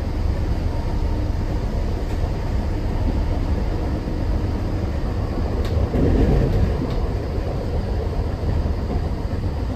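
Cabin noise inside a British Rail Class 319 electric multiple unit running at speed: a steady low rumble of wheels and running gear on the track, with a brief louder surge about six seconds in.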